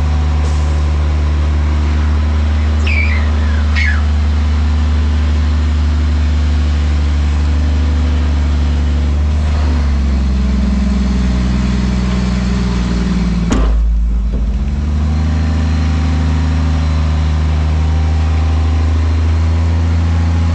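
Front loader garbage truck's diesel engine running with a steady low drone. There are two short falling squeals about three and four seconds in. The engine note shifts for a few seconds around a single sharp bang near the middle.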